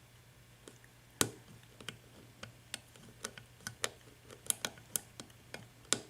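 Lock pick clicking against the pin stack inside a small brass four-pin IFAM padlock's keyway: a string of irregular sharp clicks, the first and loudest about a second in, then more clicks coming faster toward the end.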